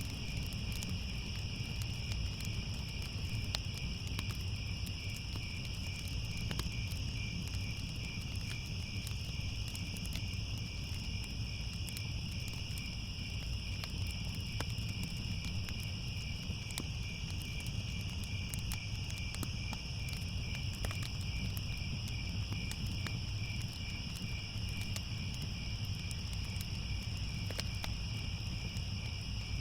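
A steady, unbroken chorus of crickets chirping at night, over a low rumble with scattered small crackles from a fire.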